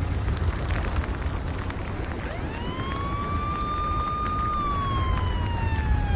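A siren wailing: it rises about two seconds in, holds, then falls slowly near the end, over a deep steady rumble.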